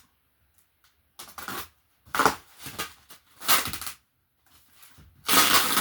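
Packing tape on a cardboard box being cut and the box flaps handled: about five short scraping, rustling bursts, the longest and loudest near the end.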